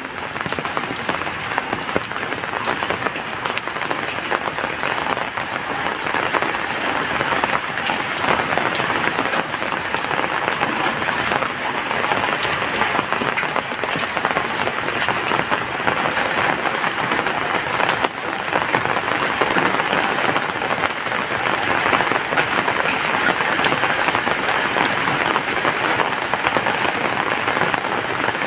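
Steady heavy rain falling: a dense, even hiss of rain with many individual drops ticking close by.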